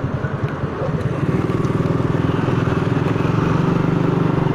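Motorcycle engine running under way with a rapid pulsing firing note; about a second in it grows louder and steadier as the bike pulls on.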